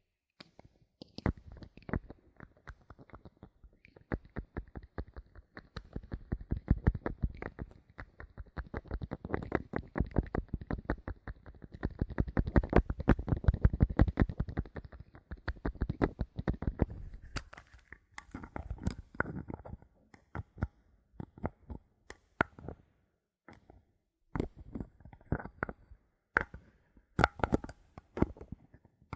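Bottle caps handled close to the microphone: a fast, continuous run of small clicks and ticks that thickens and grows louder in the middle, then gives way to scattered single clicks and short clusters of taps near the end.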